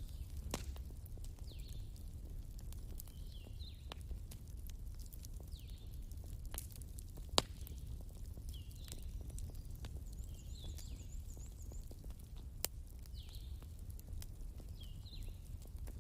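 Wood fire crackling, with scattered sharp pops, the loudest about seven seconds in, over a steady low rumble. A short downward chirping call repeats every second or two throughout.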